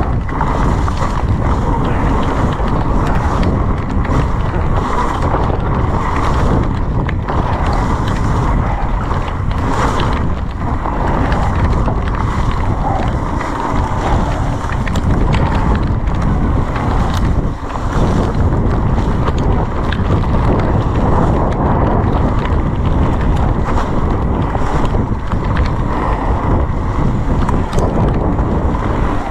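Wind buffeting the camera microphone as an electric mountain bike is ridden down a wet trail: a steady rush with frequent knocks and rattles from the bike over rough ground.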